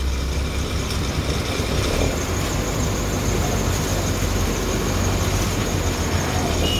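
Steady street noise with a motor vehicle's engine running at a low, even hum.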